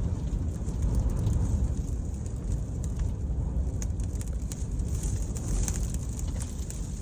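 Strong, gusting wind of a dust devil buffeting the microphone: a heavy, uneven low rumble, with a few faint ticks scattered through it.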